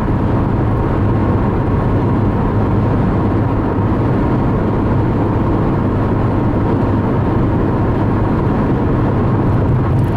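Steady road noise and low engine hum inside a moving car on the highway.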